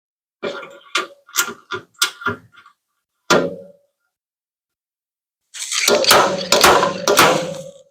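Slide-hammer dent puller knocking against studs welded to a pickup bed's sheet-metal panel, pulling the dent out: a quick run of sharp metallic knocks, a single knock, then a denser flurry of knocks near the end.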